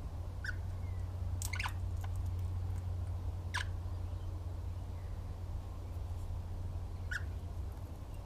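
A bird giving a few short, sharp calls spaced one to three seconds apart, over a steady low hum.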